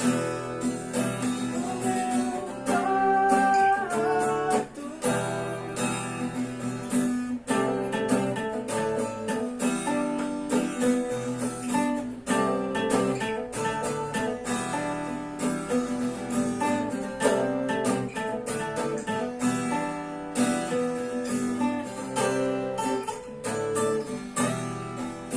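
Guitar playing an instrumental passage of chords, strummed and picked with many sharp strokes and no singing.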